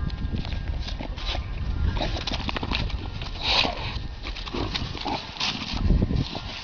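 A dog making noises amid irregular scuffling clicks and knocks, with a louder noisy burst about halfway through.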